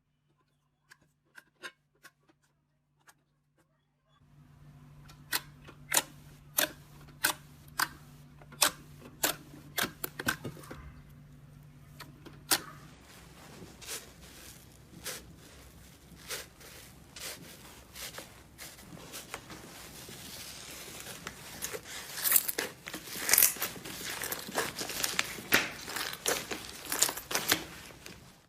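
Slime being squeezed and poked by hand, giving sharp popping clicks at about one or two a second, which turn into denser, louder crackling near the end.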